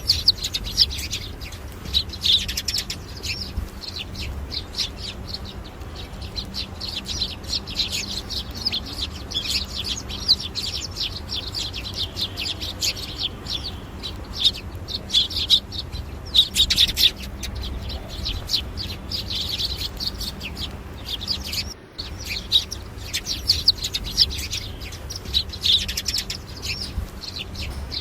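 Many small birds chirping and twittering at once in a dense, continuous chatter of quick high notes, with a brief break about two-thirds of the way through.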